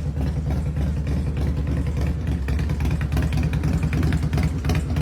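2002 Harley-Davidson Heritage Softail's V-twin engine running steadily with a rapid low pulsing beat.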